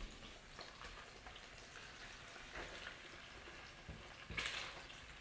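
Salmon steaks sizzling faintly in oil in an electric cooker's pan as they are turned with a utensil, with light scrapes and a sharper knock about four and a half seconds in.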